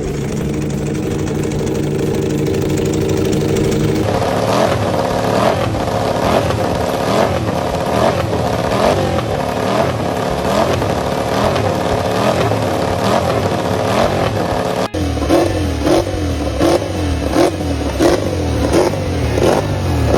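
Racing motorcycle engines heard through their exhausts, in three clips cut together: first a steady, even engine note, then about four seconds in repeated quick revs that rise and fall again and again, then near the end sharper revs with a deeper note underneath.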